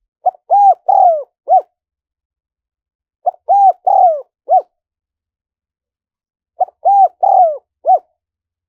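Spotted dove cooing: three identical four-note coo phrases, about three seconds apart.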